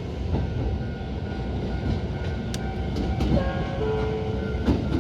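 Inside a KiHa 40 diesel railcar under way: a steady low rumble of the diesel engine and running gear, with a few sharp clicks from the rails. Partway through, thin steady whining tones come in and change pitch in steps.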